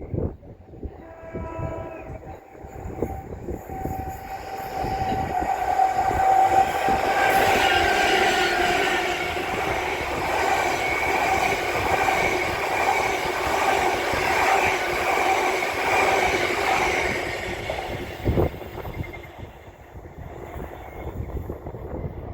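A train passing through the station: it builds from about four seconds in, runs loud with a steady tone for about ten seconds, then fades away. A short horn-like tone sounds about a second in.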